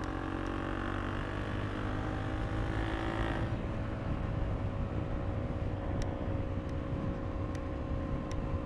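2022 KTM RC390's single-cylinder engine running under way, with low wind rumble on the microphone. The upper engine tones drop away about three and a half seconds in, leaving a steadier hum, with a few faint clicks near the end.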